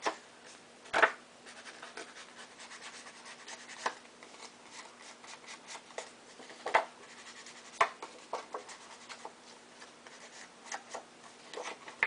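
Paper-crafting handling sounds: an ink pad dabbed and rubbed along the edges of card stock to distress them, giving light scratchy rubbing with a few irregular sharp taps on the tabletop.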